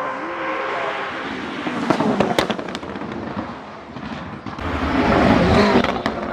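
Koenigsegg Jesko's twin-turbo V8 exhaust giving a string of sharp pops and cracks about two seconds in, then the engine noise swelling loudly near five seconds and dying away near the end.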